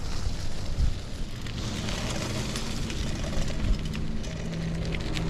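Wind rumbling on the microphone with rolling noise during a bicycle ride, joined by a steady low hum about four seconds in.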